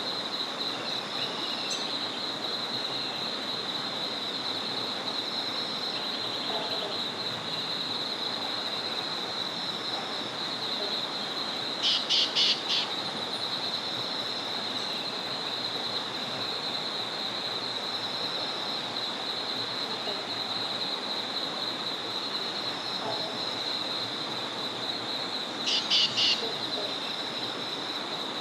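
Small forest river flowing steadily, under a continuous high, finely pulsing trill. Birds call over it, with a short loud burst of rapid notes about twelve seconds in and another near the end.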